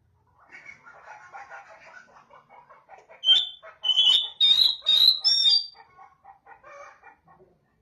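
Oriental magpie-robin (kacer) singing: a run of rapid, harsh chattering notes, then loud, clear whistled notes from about three to five and a half seconds in, then chattering again. This is a calling song meant to make another kacer answer.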